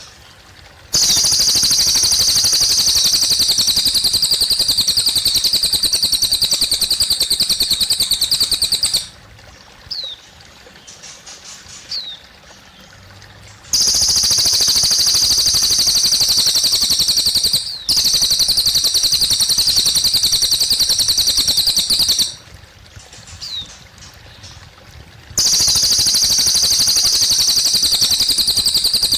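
A cililin bird singing long, rapid, high trills, each running about eight seconds. Quieter pauses between the trills hold single short chirps. A faint trickle of water runs underneath.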